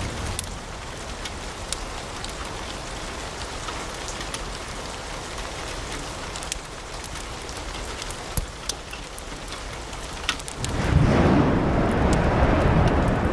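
Wood fire crackling in a fireplace: a steady hiss scattered with frequent sharp pops. Near the end a deep rumble swells in suddenly and becomes the loudest sound.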